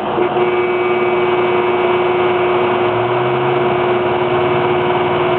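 Truck engine idling while a small air conditioner, run off the truck's battery through an inverter, runs with its fan on low. There is a steady hum throughout, and a deeper, pulsing hum comes in about three seconds in.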